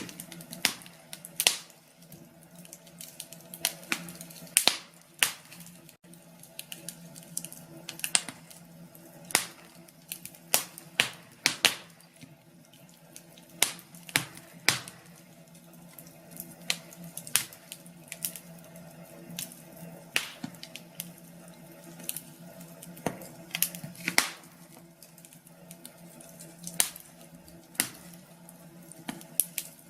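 Wood fire in a fireplace crackling, with sharp pops and snaps at irregular intervals over a faint steady low hum.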